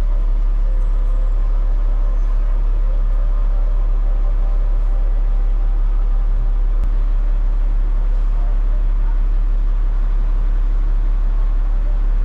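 Steady low drone of a Peterbilt 589 dump truck's diesel engine heard from inside the cab, with no change in pitch or level.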